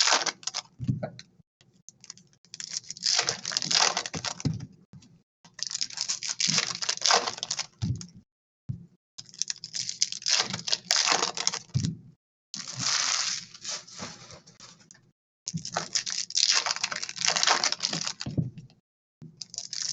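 Trading card packaging being torn and crinkled open: a series of about six rustling, tearing bursts, each lasting one to three seconds with short pauses between them.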